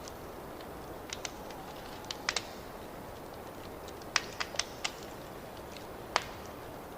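Wood fire crackling in a fireplace: a steady soft hiss with scattered sharp pops, a few at a time about one, two and four seconds in, and a single louder pop near the end.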